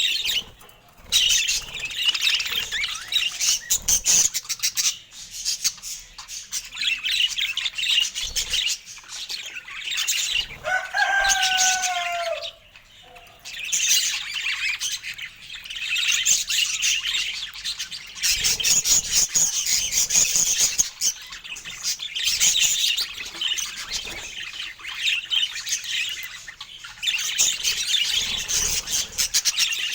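Budgerigars chattering and warbling, a dense, continuous twittering with brief pauses. One lower, falling call stands out near the middle.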